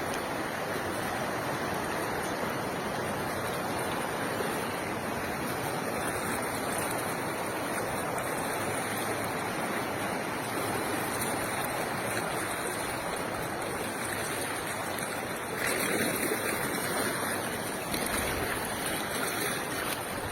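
Rushing floodwater: a steady, even rush of flowing water, swelling briefly about three-quarters of the way through.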